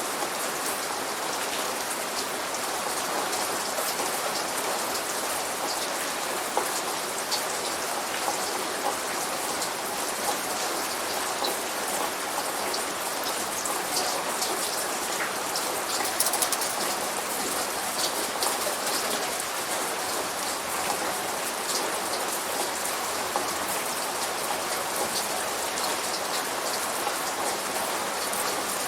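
Steady light rain falling, an even hiss with many small drop ticks on hard surfaces and no thunder.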